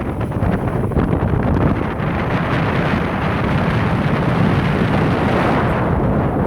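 Strong wind buffeting the microphone in a loud, steady rumble that swells for a few seconds in the middle.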